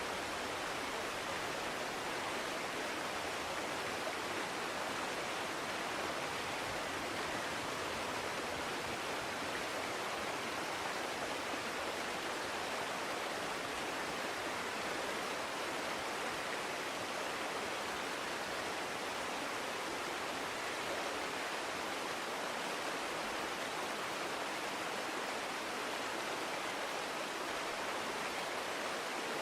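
A forest brook flowing: a steady, even rush of water that does not change.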